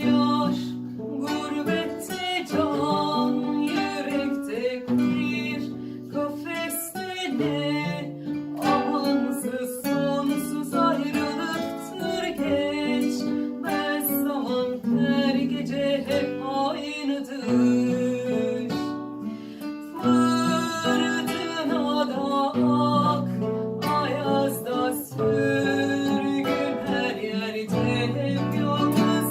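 Acoustic guitars playing a song, plucked and strummed chords.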